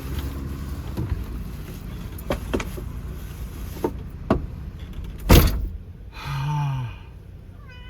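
A few sharp clicks and knocks, with one loud thump about five seconds in; right at the end a cat starts to meow.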